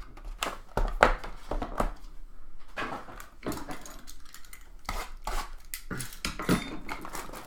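Cardboard trading-card box being handled and opened: a run of irregular knocks, taps and scrapes.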